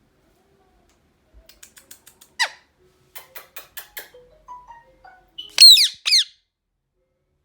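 Indian ringneck parakeet making soft clicking chatter and a short falling squawk, then two loud, sharply falling screeches near the end.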